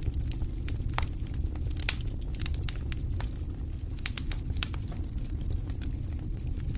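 Campfire crackling and popping: sharp, irregular pops of burning wood over a steady low rumble, with one louder pop about two seconds in.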